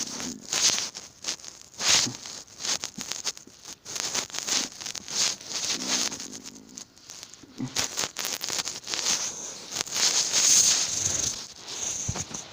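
Irregular scratching and rustling of a cat pawing, clawing and grabbing at a hand, in quick scuffling bursts with a few short low sounds mixed in.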